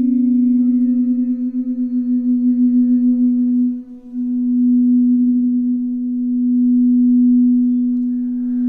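A singing bowl sounding one sustained low tone with fainter overtones, pulsing with a wobbling beat in the first half. The tone dips briefly about four seconds in and then carries on steadily.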